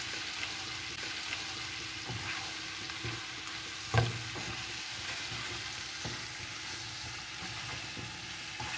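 Chopped tomatoes and onions sizzling in hot oil in a pan while a wooden spatula stirs them, with soft scraping clicks and one louder knock of the spatula against the pan about four seconds in.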